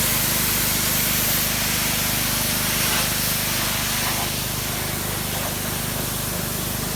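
Pressure washer running: the steady hiss of the water jet spraying cedar siding over the constant hum of the machine's motor and pump. The hiss eases a little about four seconds in.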